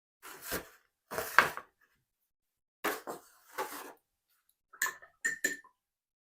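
Paintbrush working in a hard painting dish: four short scrubbing swishes, then three quick light clinks with a brief ringing note near the end.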